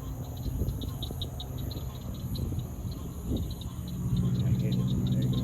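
Night insects chirping in a fast, even pulse, over the low hum of an approaching airboat's engine, which grows louder over the last second or two.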